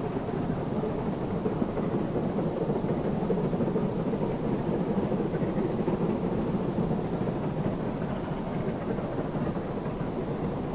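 Steady rumble of a heritage train running along the line, with no distinct beats.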